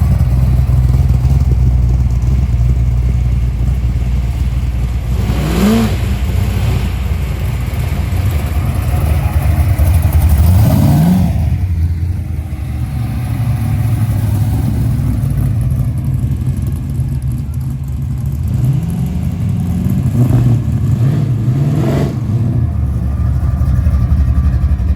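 A muscle car engine idling with a low rumble, revved up briefly several times, each rev a short rise in pitch that falls back to idle.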